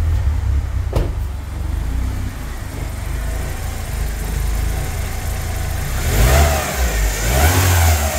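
BMW M42B18 four-cylinder engine idling warm, then revved up and down several times from about six seconds in, with a short click about a second in. No chain rattle is heard on the revs: the new timing chain tensioner has taken up the slack in the timing chain.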